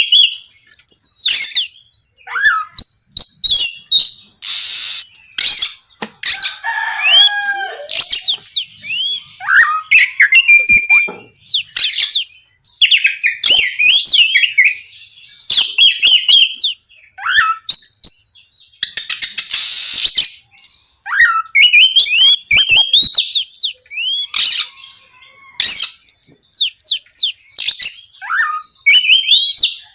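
Oriental magpie-robin (kacer) singing a loud full song: quick phrases of rising, sweeping whistled notes with brief pauses between them. Twice, about five seconds in and again near twenty seconds, a short harsh rasping note cuts through.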